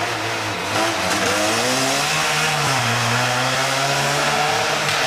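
Rally car's engine revving hard as the car brakes through a tyre chicane and accelerates past, the pitch dipping and climbing with the changes of speed and dropping sharply near the end.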